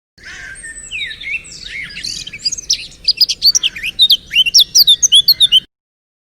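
Birdsong sound effect: several birds chirping and twittering in quick high whistled notes, denser and louder from about halfway through, cutting off suddenly near the end.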